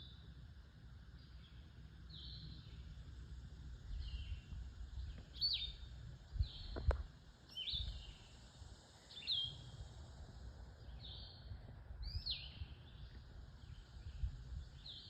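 Vireos singing short whistled phrases, about one every second or so. These are blue-headed vireos with a red-eyed vireo among them. Low rumble runs underneath, and a single sharp click comes about seven seconds in.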